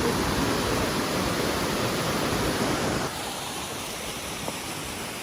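Waterfall, a steady rush of falling water that drops abruptly to a quieter level about three seconds in.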